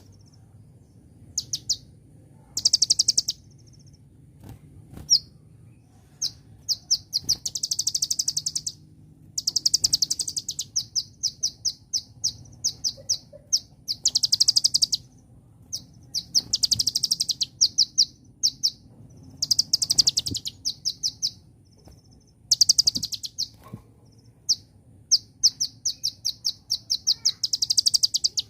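Kolibri ninja (Konin) sunbird singing: bursts of rapid, high-pitched twittering trills, one every second or two, each lasting from a fraction of a second to about a second, with short pauses between.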